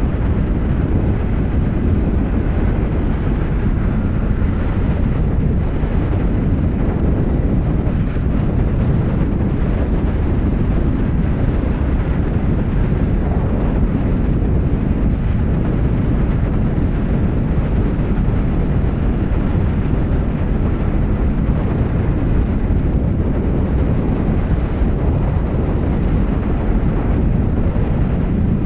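Honda Rebel 300 motorcycle under way: a steady rush of wind on the microphone mixed with the running of its single-cylinder engine, holding an even pace without speeding up or slowing down.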